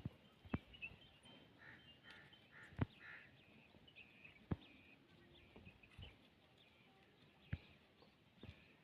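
Faint high bird chirps, with soft scattered taps or knocks about every one to two seconds.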